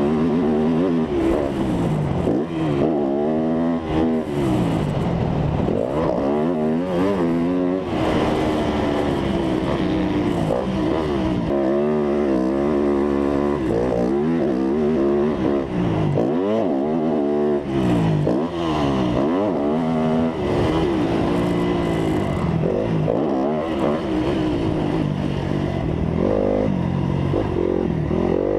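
Dirt bike engine revving hard and easing off over and over as it is ridden, its pitch climbing and dropping every second or two.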